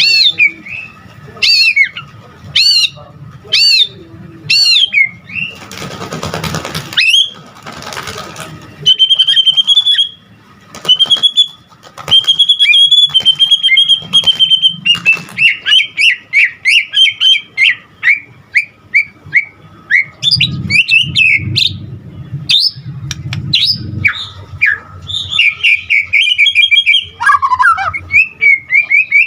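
White-rumped shama (murai batu) singing continuously, in full 'gacor' song rich in mimicked phrases ('isian'). It opens with a string of loud whistled notes, each rising and falling, about one a second. A short noisy rustle comes about six seconds in, then long runs of fast, varied warbling and chirping, with a falling whistle near the end.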